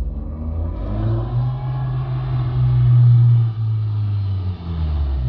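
VW Golf 6 R's turbocharged four-cylinder engine running through a full stainless-steel turbo-back exhaust with downpipe and sport cat, a deep steady exhaust note that builds to its loudest about three seconds in, then eases off.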